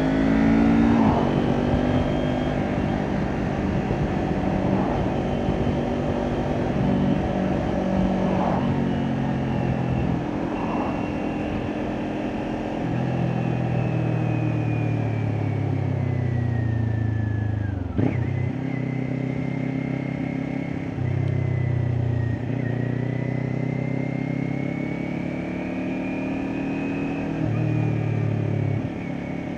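Kawasaki Ninja 400 parallel-twin engine with an Akrapovic exhaust, pulling through the gears. The engine note rises and drops at each upshift, then falls away as the bike slows, with a sharp click about 18 seconds in. The revs then climb through more gears.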